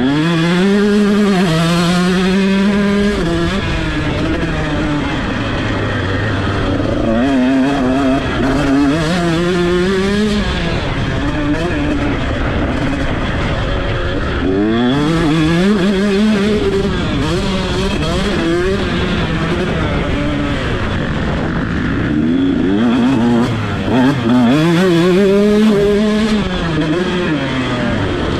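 125cc two-stroke motocross bike engine run hard on a dirt track, its pitch climbing in several long sweeps as it is wound out and falling back between them as the rider shifts and rolls off the throttle.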